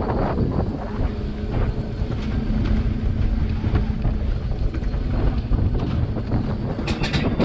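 Wind buffeting the microphone during a ride, over a steady low running rumble with a faint hum.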